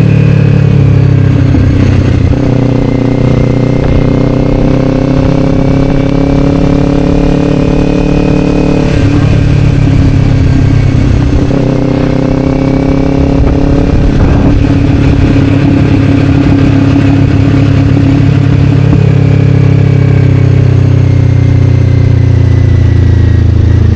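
Kawasaki Ninja 500's parallel-twin engine running through an Akrapovic slip-on exhaust as the bike is ridden. The engine note holds fairly steady with slow changes in pitch, and shifts twice, about nine and about fourteen and a half seconds in.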